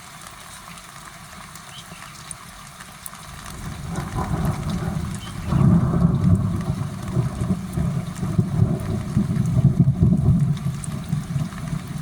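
Thunder rumbling: a deep, rolling rumble that builds about four seconds in and grows loud from about halfway, following a lightning flash.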